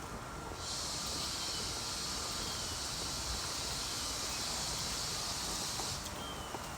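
An insect's steady, high buzzing drone starts abruptly about half a second in and cuts off about a second before the end.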